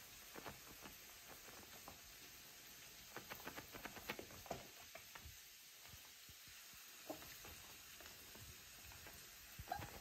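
Faint sizzle of onion and carrot frying in a pan. A small Chihuahua jumping up at a person's legs makes light quick taps about three to four seconds in, and a few single taps later.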